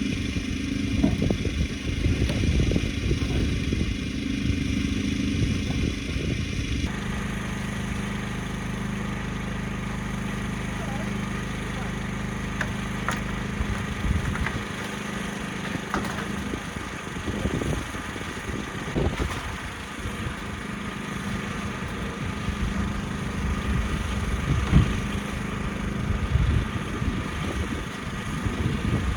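An engine running steadily, with scattered short knocks over it. The pitch and tone of the running change abruptly about seven seconds in.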